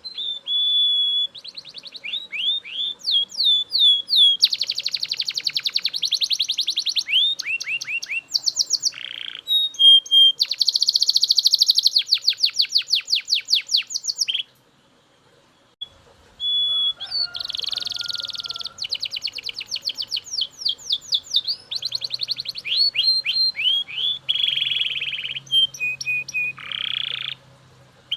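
Male Belgian canary singing loudly: phrases of very fast trills and rolling tours with clear whistled notes. The song breaks off for about two seconds halfway through, then resumes.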